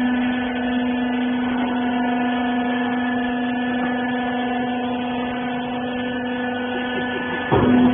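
A rag baler's hydraulic pump running with a steady hum. A short louder burst of noise comes near the end while the hum carries on.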